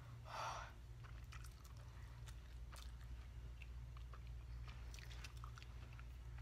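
Faint chewing of spicy noodles: scattered small wet mouth clicks over a low steady hum, with a short breathy puff about half a second in.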